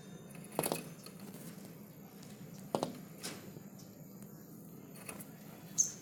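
Small bird at a window: four sharp taps spread through, and one brief high chirp near the end, the loudest sound, over a low steady hum.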